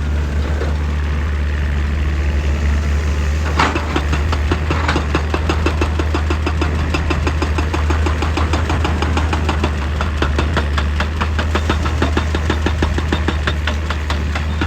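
Excavator's diesel engine running steadily under load. About three and a half seconds in, one sharp strike is followed by a rapid, even hammering on rock that keeps on.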